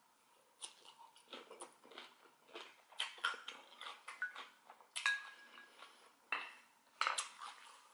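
Close-miked chewing of a mouthful of kimchi, with small wet crunching and smacking sounds. A few sharp clinks of a utensil against the glass bowl stand out above the chewing.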